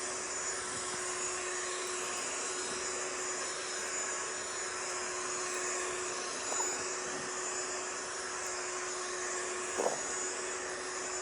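Vacuum cleaner noise played as white noise to settle a baby: a steady, even rushing sound with a constant low hum running under it.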